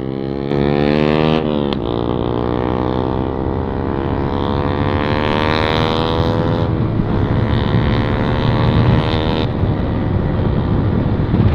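Yamaha MT-15's single-cylinder engine accelerating hard through an open modified exhaust with the dB killer removed: the pitch climbs, drops at a gear change about two seconds in, climbs again for several seconds, then falls and runs rougher.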